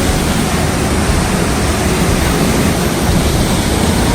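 Flooded creek rushing in a steady, unbroken roar of water.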